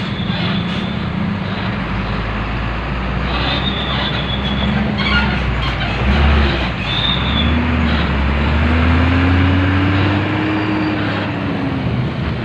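Train passing close by with a steady heavy rumble and a few brief high squeals from the wheels. In the second half a low engine tone slowly rises and then falls away.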